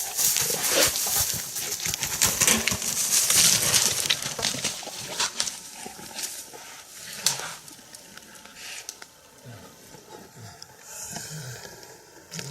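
A brown-phase black bear, just hit by an arrow, crashing off through brush and dry leaves, then giving several short low calls that fall in pitch near the end.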